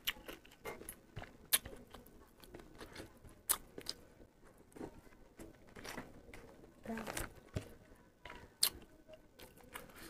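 Close-up chewing of a mouthful of rice and curry eaten by hand: wet mouth and lip smacks with irregular sharp clicks, a few of them louder.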